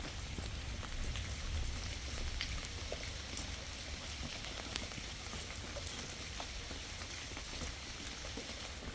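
Steady rain, with scattered single drops ticking close by over a low rumble.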